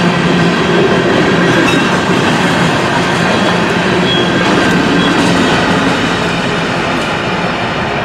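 BNSF coal train rolling past: a steady rumble and rattle of wheels on rail, easing slightly near the end.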